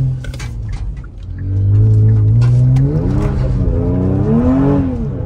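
Kia Stinger GT's twin-turbo 3.3-litre V6, with aftermarket exhaust and intakes, under hard acceleration. The note drops off about a second in, then the revs climb and surge up and down several times, with light rattling clicks over it.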